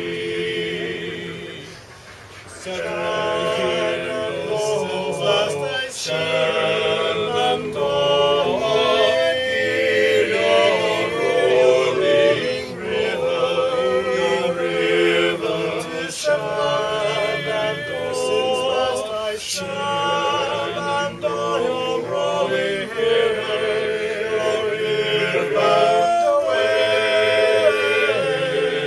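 A choir singing in harmony, with held, wavering notes. The singing dips briefly about two seconds in, then carries on.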